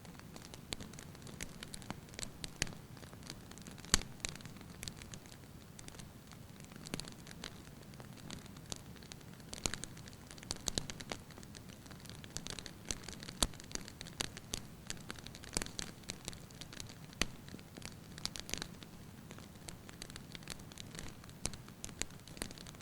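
Firewood burning in a fireplace, with irregular light crackles and pops over a steady low hiss of the flames. The sharpest pop comes about four seconds in.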